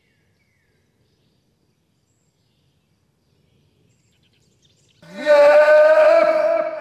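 Near silence for about five seconds, then a loud siren-like wail sweeps sharply up in pitch and holds as one long note, slowly edging higher.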